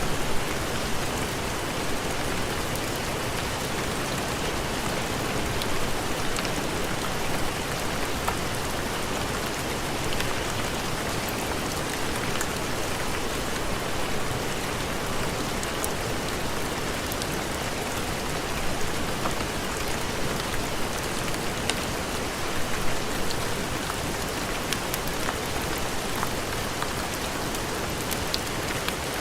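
Heavy rain falling steadily as a dense, even hiss, with scattered faint sharp ticks over it.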